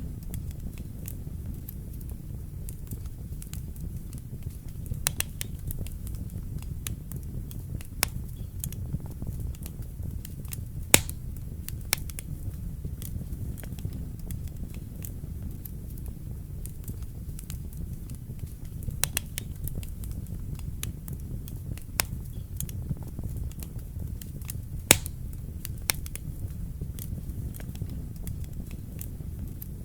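Wood fire burning in a fireplace: a steady low rumble of flame with scattered sharp pops and crackles, two of them louder, about eleven and twenty-five seconds in.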